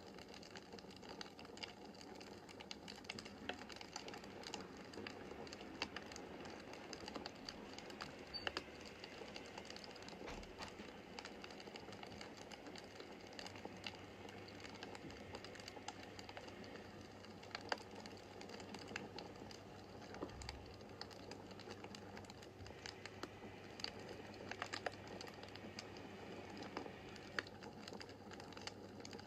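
Wood fire crackling in a fireplace: irregular sharp pops and snaps from the burning logs over a steady soft hiss.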